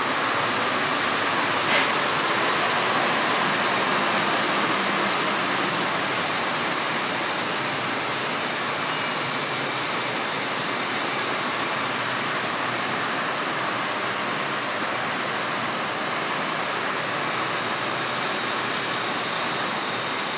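Steady rushing hum of a JR East 185 series electric train standing at a platform, its air-conditioning and auxiliary machinery running, with one sharp click about two seconds in.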